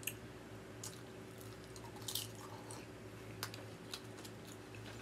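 Faint chewing of tortilla-strip nachos with ground beef, with a few scattered short crunches and clicks over a steady low hum.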